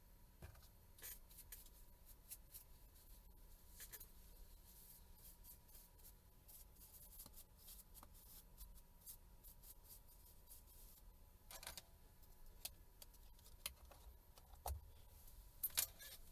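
Faint, scattered small clicks and scrapes of small parts and tools being handled on a work bench, with a few sharper clicks near the end, over a faint steady background tone.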